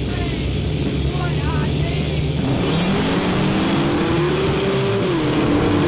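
Race cars' engines, a Chevy Nova and a hot rod, running steadily at the start line, then revving: from about two and a half seconds in the engine pitch climbs steadily, then drops sharply about a second before the end and holds.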